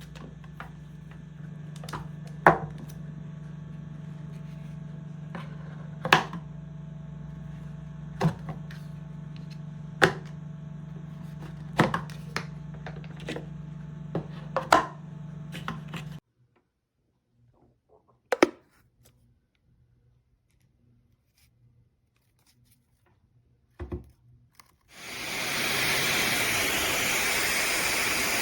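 A steady low hum with sharp clicks and knocks every second or two, then near silence broken by two clicks. About three seconds before the end, the Fentgo brushless high-speed hair dryer switches on: its airflow rushes up to a loud, steady hiss within about a second.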